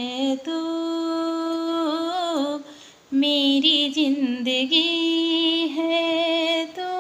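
A woman singing a slow melody without words, holding long notes with vibrato and no accompaniment. There is a short break about three seconds in.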